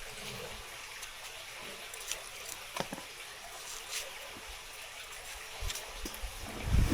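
Water running and trickling, with a few light clicks and knocks scattered through it and a heavier low thump near the end.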